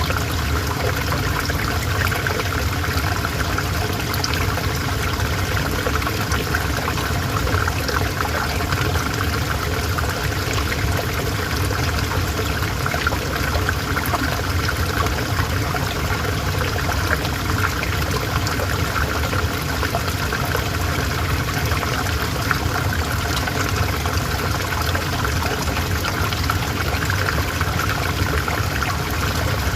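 River water flowing steadily, a continuous even rush and trickle.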